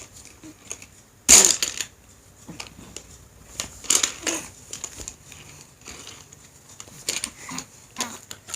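Plastic clicks and knocks from a Hot Wheels launcher playset being worked by hand, with a die-cast toy car clattering on it; one loud knock about a second in, then scattered lighter clicks.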